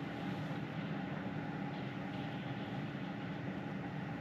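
Steady tyre and road noise heard inside the cabin of a Tesla Model 3 Performance driving along, with a faint steady hum underneath.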